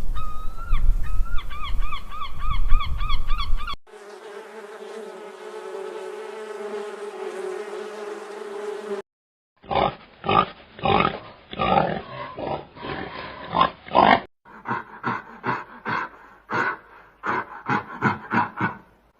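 Animal calls from several clips cut one after another. First comes a fast run of repeated honking calls, then a steady low hum lasting about five seconds, then after a short pause a long series of short pulsed calls at a few a second.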